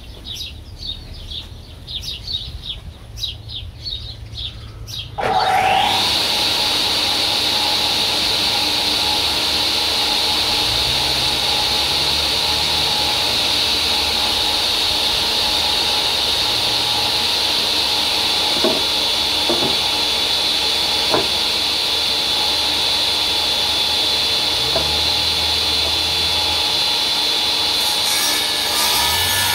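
1950 Tanner table saw switched on about five seconds in, its motor and blade spinning up with a rising whine and then running steadily with a high whine over a lower hum. Before it starts there are quieter handling clicks, and near the end the blade begins cutting wood.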